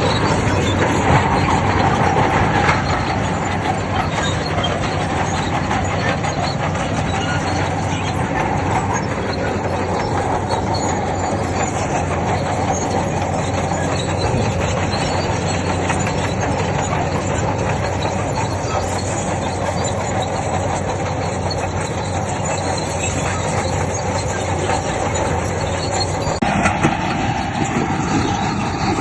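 Heavy earthmoving machinery at work, a bulldozer's diesel engine and steel crawler tracks, running steadily and loudly. The sound changes abruptly a couple of seconds before the end.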